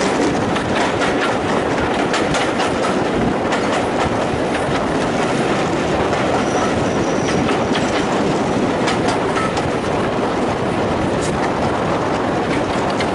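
A passenger train on the move, heard from aboard: a steady rumble of wheels on rail with frequent irregular clicks as the wheels run over the rail joints.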